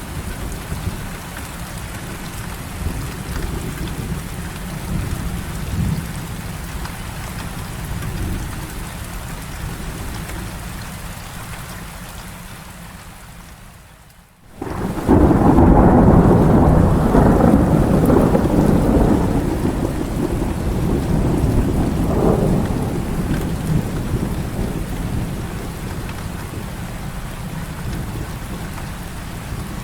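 Heavy rain falling steadily over a low rumble, dying almost away about halfway through. Then a loud thunderclap breaks in suddenly and rolls on for several seconds, fading slowly as the rain goes on.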